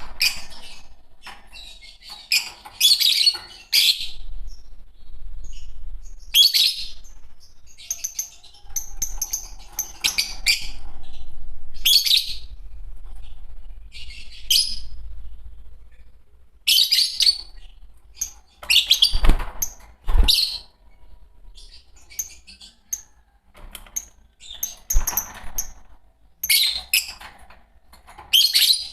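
A pair of Fischer's lovebirds chirping in repeated short, shrill bursts. There are a few dull thumps about two-thirds of the way through.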